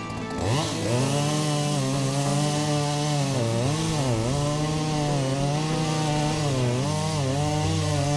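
Chainsaw revving up about half a second in, then running at high speed while cutting into the trunk of a dead cherry tree. Its pitch dips a few times as the chain bogs down in the cut.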